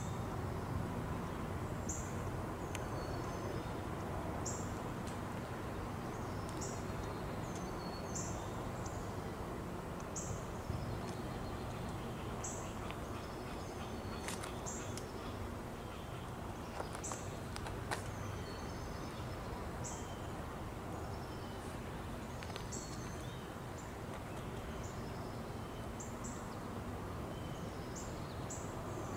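Birds chirping, a short high call repeated every second or two, over a steady low rumble of outdoor background noise.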